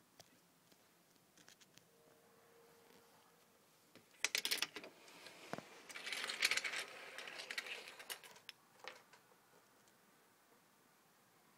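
Handling noise: a quick cluster of sharp clicks about four seconds in, then a few seconds of rustling and scraping, with scattered lighter clicks around them.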